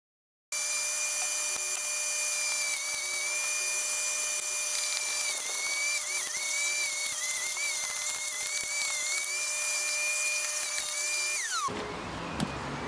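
Mac Allister electric wood chipper running with a high motor whine that wavers and dips again and again as branches are fed through. Near the end the whine drops sharply in pitch and cuts off.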